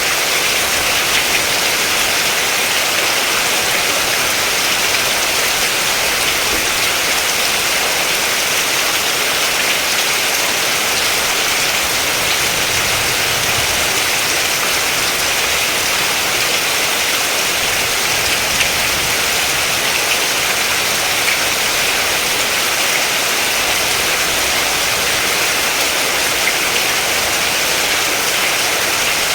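Steady, heavy rain: an even hiss of falling rain with faint individual drop ticks.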